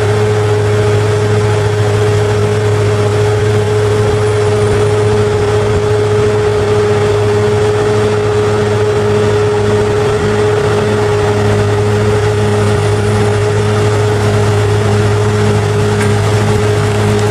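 Bulldozer engine running at a steady speed, a constant hum with a low drone beneath it that does not change.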